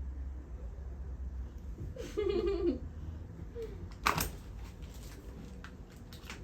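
A small child giggles briefly about two seconds in, then a sharp click or knock about four seconds in, over a low steady hum.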